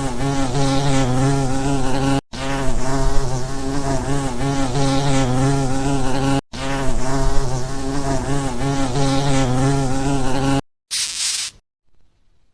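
Insect buzzing: a steady low drone in three stretches of about four seconds, each cut off abruptly, followed by a brief hiss near the end and then silence.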